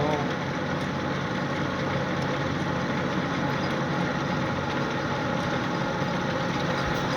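LeBlond Makino 19" x 54" servo shift lathe running steadily under power, with an even mechanical hum from its spindle and gearbox.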